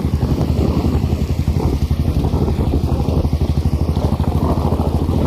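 A motor vehicle's engine running with a fast, even low pulsing, over a steady hiss.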